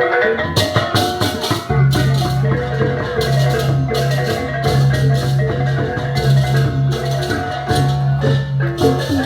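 Balinese gamelan playing: bronze metallophones ring in dense, fast interlocking patterns over shimmering cymbal strokes, and a low pulsing tone joins about two seconds in.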